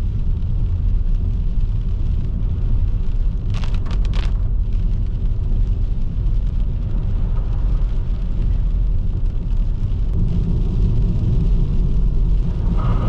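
Car driving on wet roads: a steady low rumble of engine and tyre noise, with two brief hissy bursts about four seconds in.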